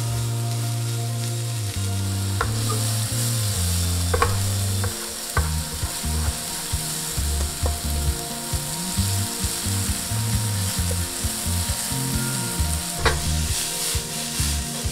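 Sliced leeks sizzling as they fry in a nonstick frying pan, stirred with a wooden spatula that knocks against the pan a few times.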